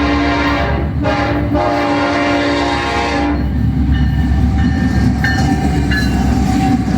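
Freight locomotive's air horn blowing, with two brief breaks, then cutting off about three seconds in. After it comes the low rumble of the train rolling past.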